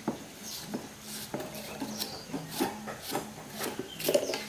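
Repeated scraping strokes, about two a second, with a faint steady low hum underneath.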